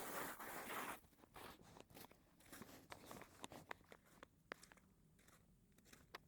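Footsteps crunching on icy snow: a dense, loud crunching scrape for about the first second, then fainter, scattered crunches and clicks.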